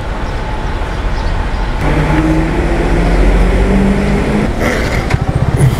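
Yamaha R15 V3's single-cylinder engine pulling away from a standstill. About two seconds in, its note rises steadily for a couple of seconds, then breaks off briefly for a gear change and picks up again near the end.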